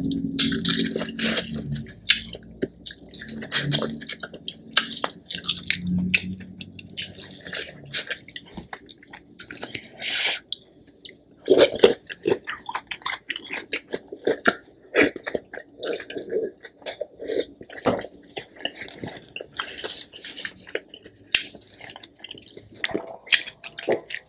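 Close-miked eating: wet chewing of corn and seafood boil with many short mouth clicks and lip smacks, and squelching of fingers in the buttery spicy sauce.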